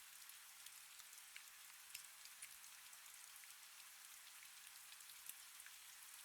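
Faint, steady rain: a soft hiss with separate drops ticking irregularly.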